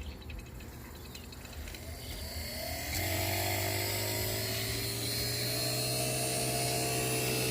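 Hercules vacuum pump starting up: its motor spins up about two seconds in and settles into a steady running hum within a second, its pitch creeping slightly higher as it starts pulling a vacuum on the heat pump's refrigerant lines.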